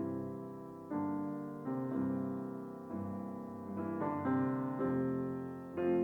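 Background music: slow piano chords, a new chord struck about once a second and left to fade.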